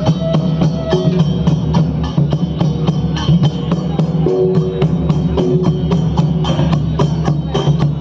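Danda Nacha folk music: drums and other percussion playing a quick, steady beat, with a few short held melodic notes over it.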